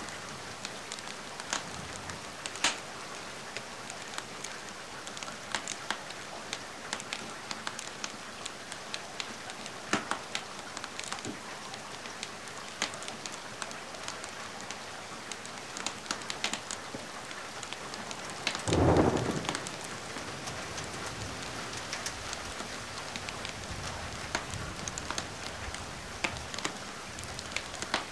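Steady rain with a wood fire crackling, sharp pops scattered throughout. About two-thirds of the way through comes one louder, deeper thump lasting about half a second.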